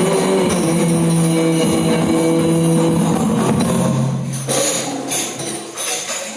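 Rebana frame drums with jingles played in ensemble under a long held tone, then the playing thins to a few last strikes and jingles as the piece ends, about two seconds before the close.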